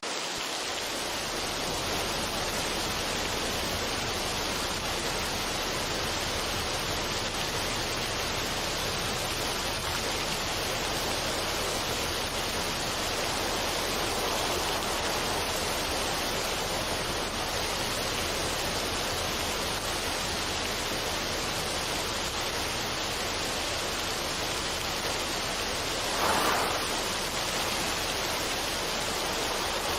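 Steady rushing noise, even and unbroken, of the kind given by a waterfall or stream ambience; it swells briefly about 26 seconds in.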